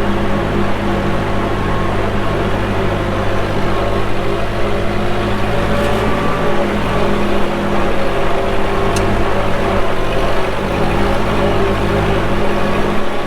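Vintage farm tractor engine running at a steady speed while driving along, heard from on or beside the tractor.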